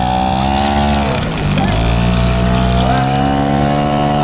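Small outboard motor pushing a canoe, running steadily; about a second in its speed dips briefly and then picks back up.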